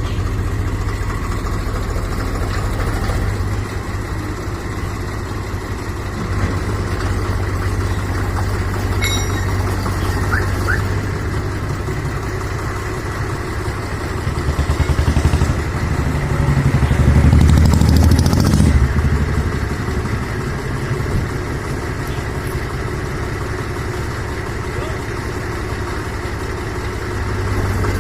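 Diesel tractor engine running steadily, swelling louder for a few seconds about two-thirds of the way through.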